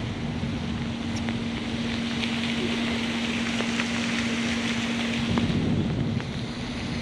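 A car's engine running with a steady hum under a constant rushing hiss, with a few faint ticks.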